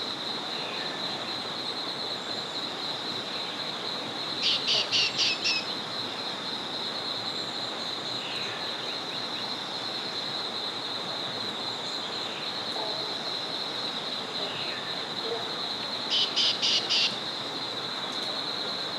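Small forest river running, with a steady high-pitched drone over it. A bird twice gives a quick series of about five sharp notes, once about four seconds in and again near the end, with faint chirps from other birds between.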